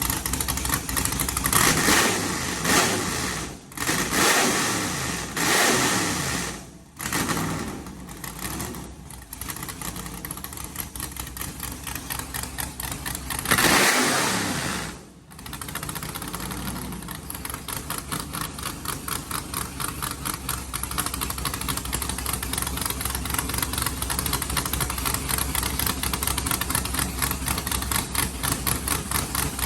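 408 cubic-inch stroker V8 running through open zoomie headers: idling with an even pulsing beat, blipped up in short revs about two seconds in and again around four to six seconds, with a stronger rev near the middle, then settling back to a steady idle.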